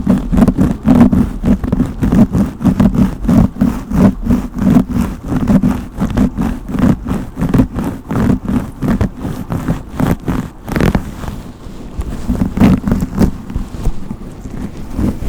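A brush stroked rapidly and repeatedly close to the microphone, about two to three scratchy strokes a second, easing off briefly near the end and then starting again.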